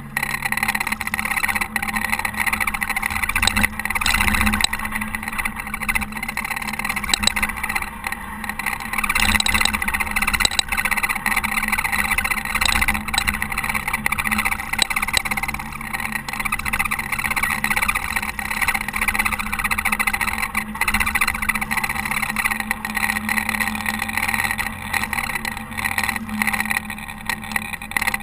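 Caterpillar TH330B telehandler's diesel engine running steadily under load while ploughing snow, its note shifting now and then as the revs change.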